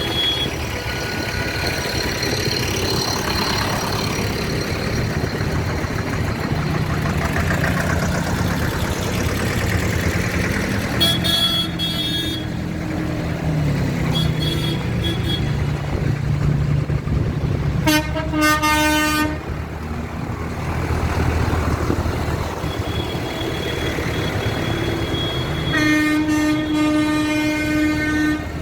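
Tractor engines running steadily as vehicles in a parade pass, with horns honking: three loud blasts about a third of the way in, past the middle, and near the end, the last held for over two seconds.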